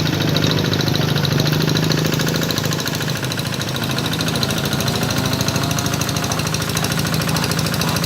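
Tractor engine running steadily while ploughing a flooded rice paddy, with a fast, even beat of firing pulses.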